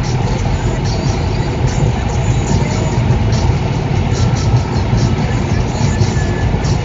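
Steady low rumble of a car driving, engine and road noise heard from inside the cabin through a windscreen dash cam.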